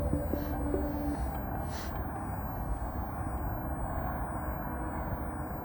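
Steady low outdoor background rumble, with a few brief hissing rustles in the first two seconds.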